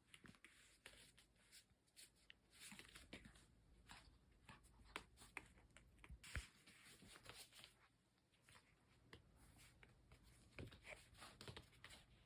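Near silence in a small room, with faint scattered clicks and soft rustles.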